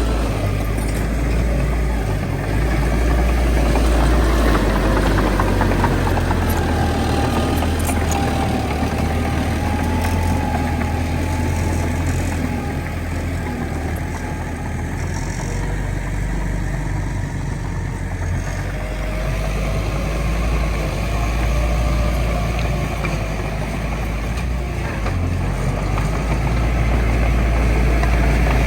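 Heavy diesel engine of earthmoving machinery running steadily, its pitch rising and falling slowly as the load changes.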